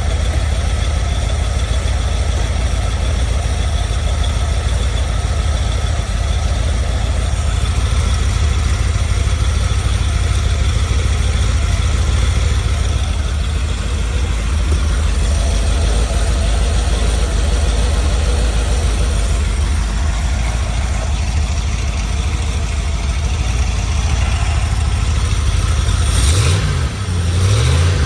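Carbureted 4.0-litre Rover aluminium V8 running on an engine stand, idling steadily and evenly with no misfire. The engine note shifts briefly about a second before the end.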